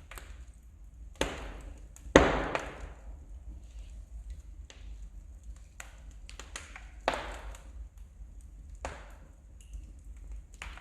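Wood fire crackling in a fireplace: irregular sharp pops and snaps of burning logs over a low rumble, the loudest pop about two seconds in.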